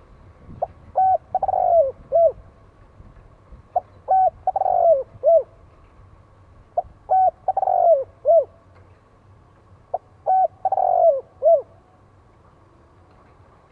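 Spotted dove cooing its song four times, about three seconds apart: each phrase is a couple of short coos, a longer falling coo and a short closing note.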